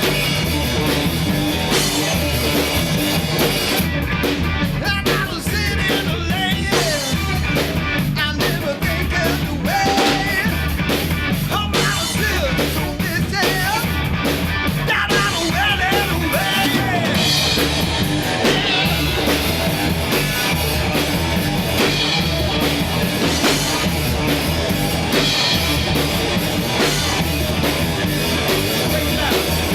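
Recorded rock music from a three-piece band: drum kit, electric guitar and bass playing together at a steady beat.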